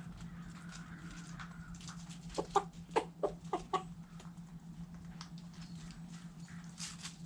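Backyard hens clucking in short, clipped notes, with a quick run of them from about two and a half to four seconds in and a few scattered ones after, over a steady low hum.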